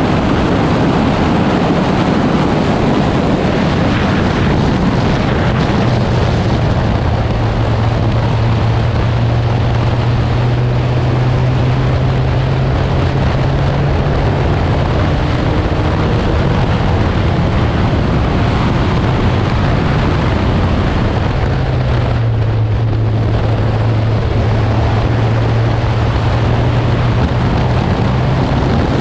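Porsche 944S's four-cylinder engine running hard at track speed under heavy wind noise on an outside-mounted microphone. The steady engine note drops away briefly about three-quarters of the way through, then picks up again.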